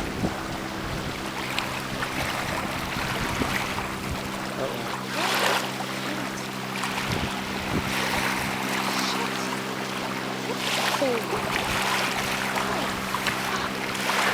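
Water splashing and lapping against a small sailboat's hull, with wind, over a steady low hum.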